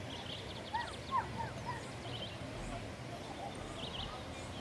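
Several wild birds singing over a steady low background noise. A fast trill of high notes opens, then a run of short, louder curving chirps comes about a second in, and a few brief high calls follow later.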